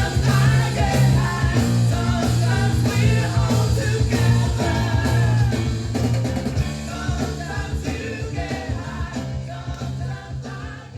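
Rock band recording with electric lead guitars, bass and drums, fading out over the second half.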